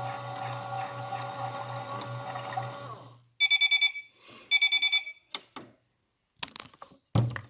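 Miele washing machine running with a steady hum that stops about three seconds in, followed by two short bursts of rapid beeping, the machine's end-of-programme signal. A few sharp clicks follow near the end.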